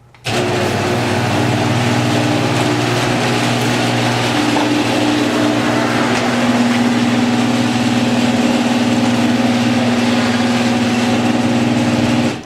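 An engine running steadily, cutting in suddenly near the start and cutting off suddenly near the end.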